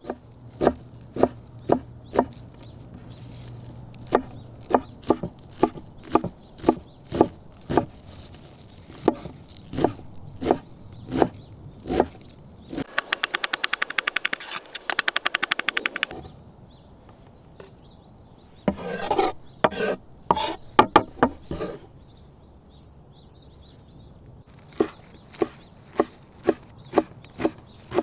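Knife chopping on a wooden cutting board: sharp knocks about twice a second, with a run of very fast strokes near the middle.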